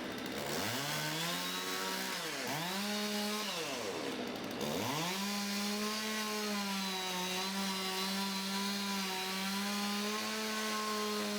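Two-stroke chainsaw revving: the engine speed climbs, drops back twice, then holds high and steady, as in a cut under full throttle.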